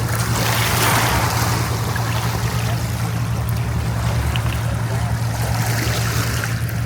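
A boat's engine running steadily under the rush and splash of water, with a surge of water noise about a second in.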